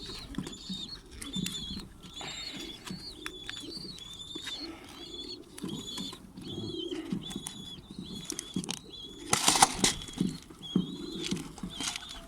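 Pigeons calling: a chick's short high peeps repeated about twice a second, with low cooing beneath them, and a brief flurry of wing flaps about nine and a half seconds in.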